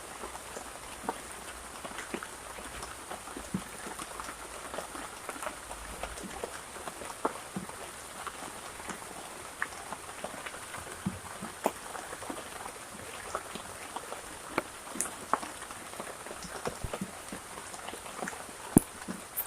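Steady rain, with many scattered drops ticking sharply on a nearby surface and a few louder hits near the end.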